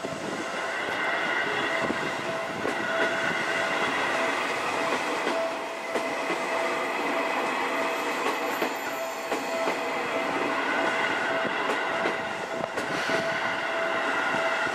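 Seibu 30000 series electric commuter train pulling slowly past close by, wheels clicking over the rail joints, with a steady high tone running throughout.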